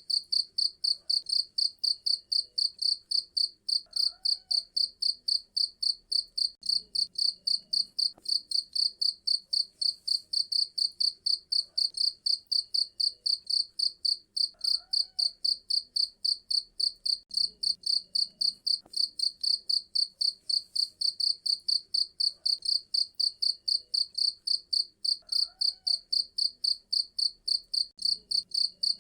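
Cricket chirping steadily, a rapid even train of short high-pitched chirps at about three a second.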